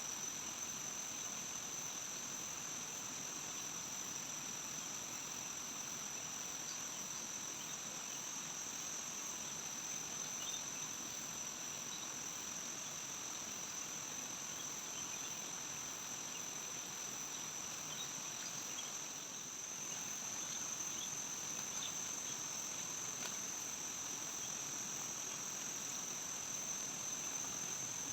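Steady chorus of forest insects: a continuous high-pitched drone, with faint scattered chirps over it.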